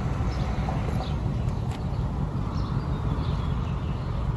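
Outdoor background: a steady low rumble with a few faint, short, high chirps and a click or two.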